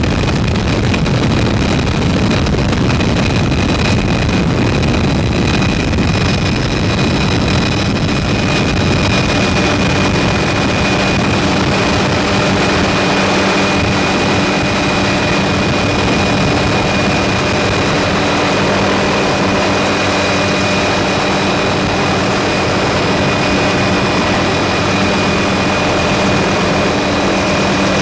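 Helicopter running steadily: a constant high whine over a noisy rumble, with a steady low hum joining about six seconds in.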